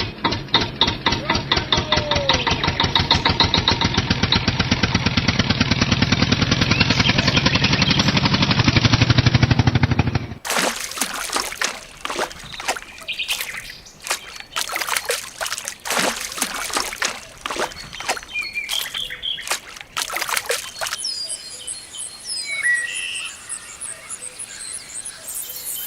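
A rapid, steady mechanical chugging for about ten seconds that stops abruptly, then irregular splashing and pouring of water, then birds chirping with insects in the background.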